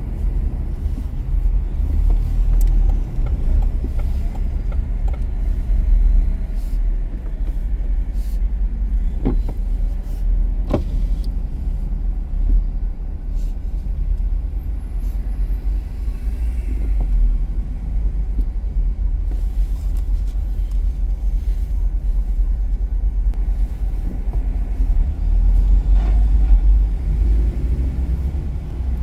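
Car driving on city streets: a steady low rumble of road and engine noise, with a couple of short sharp clicks about nine and eleven seconds in.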